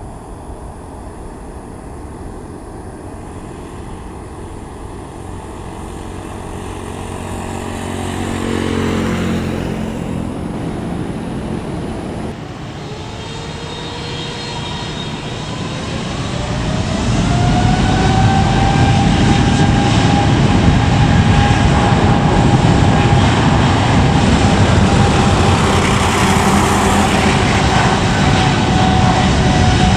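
Airliner jet noise fading as its pitch falls around nine seconds in. After a cut, a Boeing 777's jet engines spool up to takeoff thrust, a rising whine over about five seconds, then settle into a loud, steady roar.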